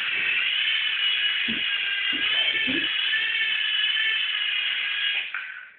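Helicopter motor whining steadily at a high pitch, several tones together that waver slightly, then cutting off about five seconds in.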